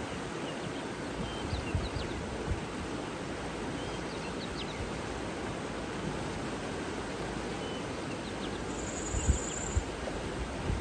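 Outdoor nature ambience: a steady rushing noise with scattered faint bird chirps, a brief high trill about nine seconds in, and a few low thumps of wind on the microphone near the end.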